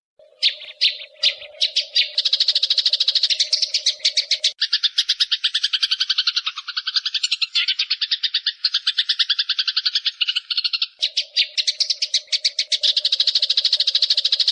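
Eurasian tree sparrows chattering in a fast unbroken run of sharp chirps, about ten a second, typical of sparrows fighting. A steady low hum sits under the chirps for the first four seconds and again near the end.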